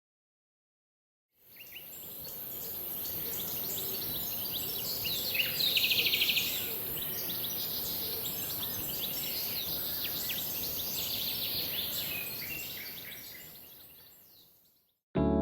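Woodland ambience of many small birds chirping and calling, with one fast trill about four seconds in, over a steady high hiss. It fades in after a second and a half of silence and fades out near the end.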